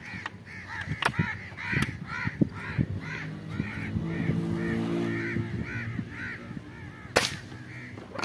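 Birds calling from a tree: a harsh call repeated steadily about twice a second. A low steady drone swells and fades in the middle, and a single sharp crack comes near the end.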